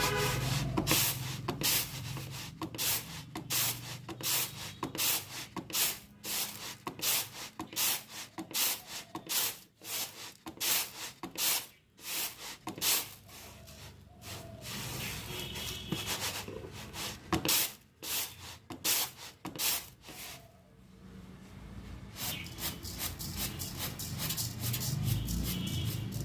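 Raw rice grains being cleaned by hand, giving a rhythmic series of dry rustling, scraping swishes about one or two a second, with a short lull about twenty seconds in.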